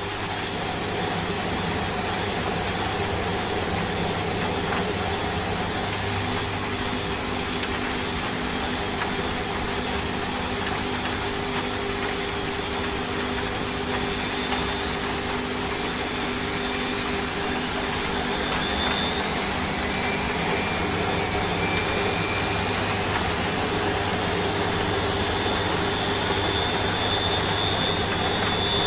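Washing machine running over a steady hiss of rain; about halfway through its motor whine starts rising in pitch and keeps climbing as the drum speeds up, as when a spin begins.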